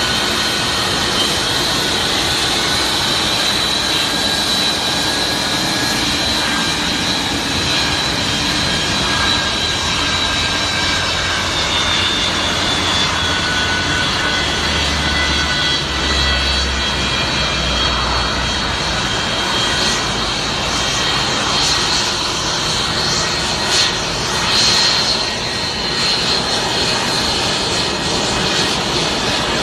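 Airplane engines running steadily: an even rushing noise with a thin high whine that drifts slightly in pitch. There is a brief louder swell about 24 seconds in.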